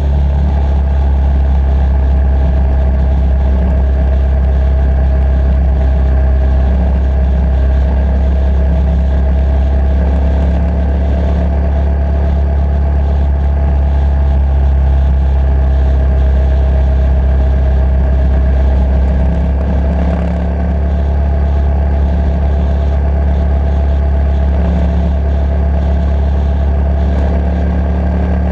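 Motorcycle engine and exhaust running steadily under way, with a brief dip in level about twenty seconds in.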